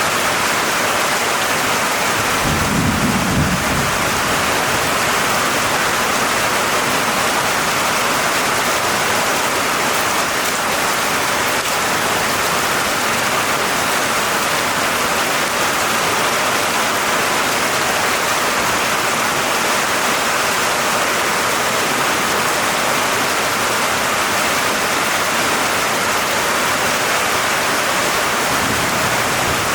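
Steady rain falling, with a short low rumble of thunder about three seconds in and a fainter rumble near the end.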